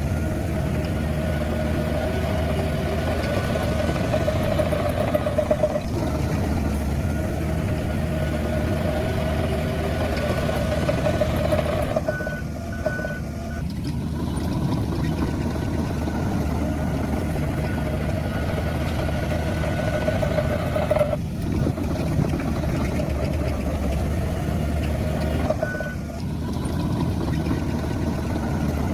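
Diesel engines of heavy earthmoving machinery running steadily, with a reversing alarm sounding short repeated beeps, most clearly about twelve seconds in.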